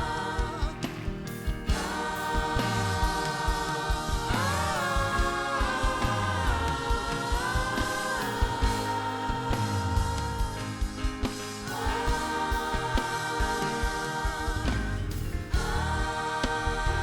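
Gospel worship music: a group of voices singing long held notes over a band with a steady beat.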